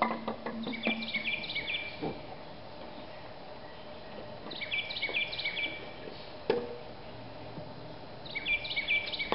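A songbird singing the same short phrase of quick, high stepped notes three times, about every four seconds, over outdoor background noise. A single sharp knock sounds about six and a half seconds in.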